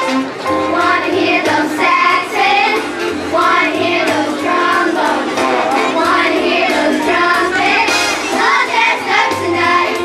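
Children's choir singing in unison over an instrumental accompaniment with a bass line.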